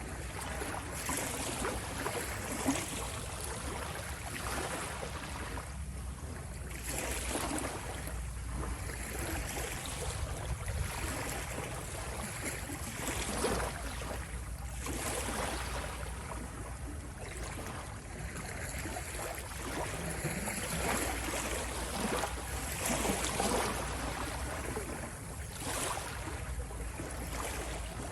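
Ocean waves washing onto the shore, a steady rush of surf that swells and eases every few seconds.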